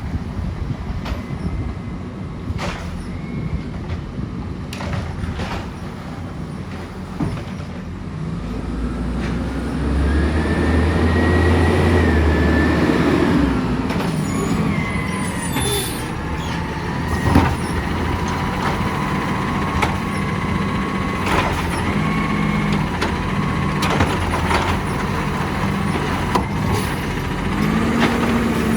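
Side-loader garbage truck at work. Its diesel engine runs and revs up for several seconds, with a thin whine that bends in pitch, scattered knocks and clangs, and one sharp bang about two-thirds of the way through.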